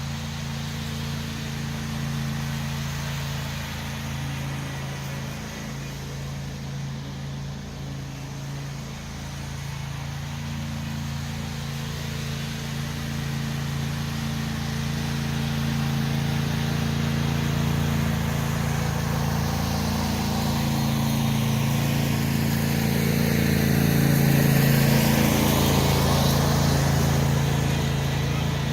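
Tractor engine running steadily, growing louder toward its peak about three-quarters of the way through.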